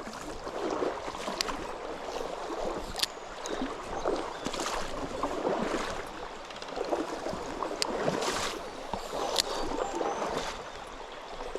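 Water of a small mountain stream rushing over stones, rising and falling, with a few sharp clicks.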